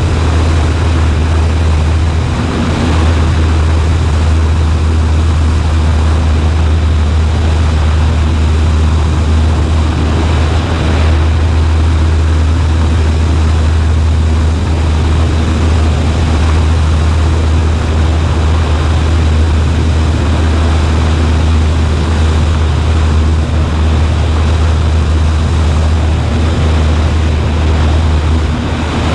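Cessna 140A's piston engine and propeller running steadily in flight, heard as a loud, unbroken low drone inside the cabin.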